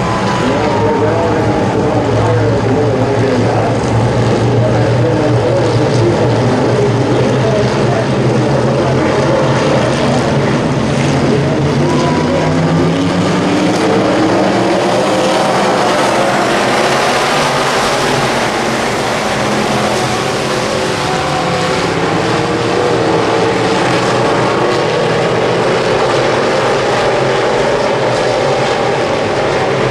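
Wissota Midwest Modified race cars' V8 engines running hard on a dirt oval, several engine notes overlapping and rising and falling as the cars go around the track.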